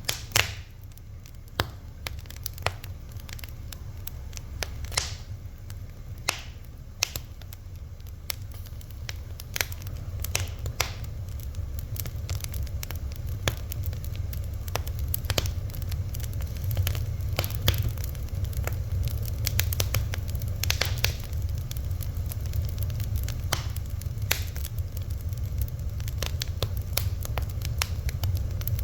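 Fire crackling: sharp, irregular pops and snaps over a steady low rumble of flame.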